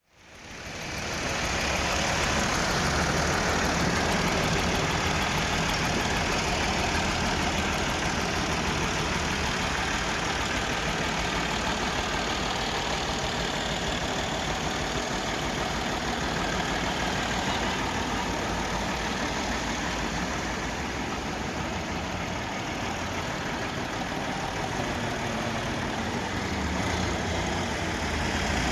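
Diesel tractor engine of a Massive 345 running steadily at a constant speed, fading in over the first second or so.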